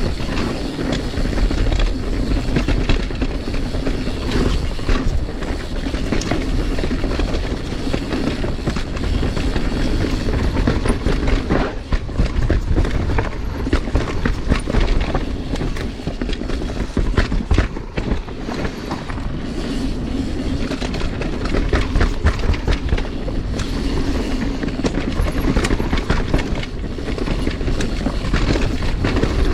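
Mountain bike riding down dirt singletrack: a steady rumble of tyres on the trail, with frequent rattles and clatters from the bike over rough ground.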